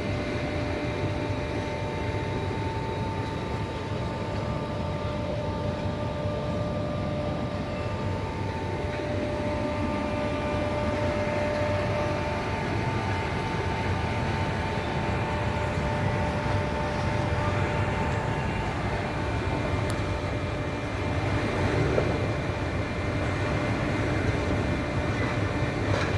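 Steady vehicle running noise: a low rumble with a few faint, steady whining tones above it.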